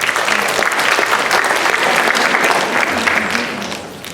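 Audience in a school assembly hall applauding after a poem reading, a dense patter of many hands clapping that fades out near the end.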